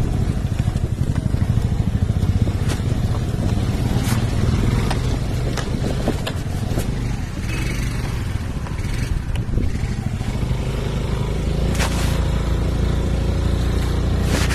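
Vehicle engine running steadily on a drive, with sharp knocks and rattles from bumps in a rough road.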